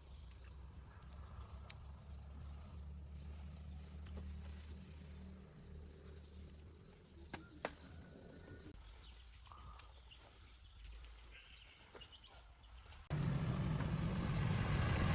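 Faint insect chirping, a steady high trill with evenly repeated pulses, over a low rumble, with a couple of clicks midway. Near the end a loud low rumble sets in suddenly.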